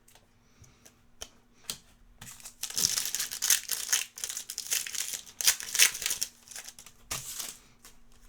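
Crinkling and tearing of a foil trading-card pack wrapper, in dense crackling stretches through the middle, with scattered light clicks of cards being handled.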